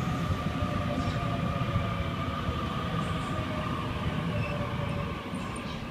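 Electric suburban train moving through the station: a steady whine from its traction equipment over a low rumble of wheels on rails, easing slightly near the end.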